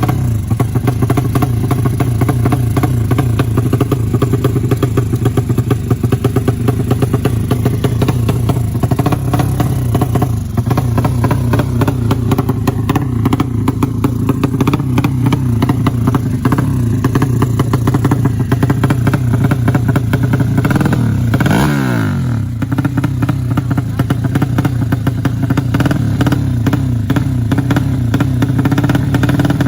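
200cc motorcycle engine running steadily at moderate revs, its pitch dipping briefly about two-thirds of the way through and then picking up again.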